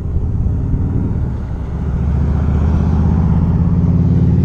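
Wind rumble and a steady low hum from riding a rented Lime electric ride at speed, building up over the first couple of seconds and then holding steady.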